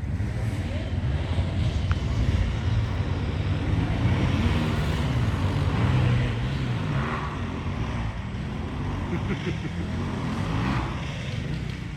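Motocross motorcycle engines running, their pitch wavering up and down under a steady rush of noise.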